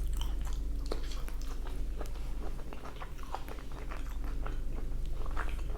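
Close-up chewing of a mouthful of carne asada fries, with many quick irregular mouth clicks, over a low steady hum.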